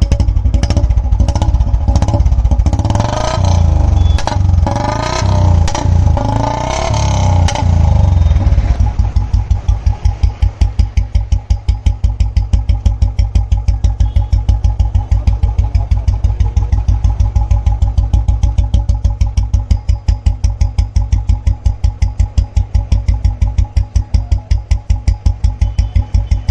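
Royal Enfield Standard 350 with a 2006 Machismo single-cylinder engine and a long Punjab exhaust, revved up and down in repeated blips for the first eight seconds or so. It then settles into an even, thumping idle.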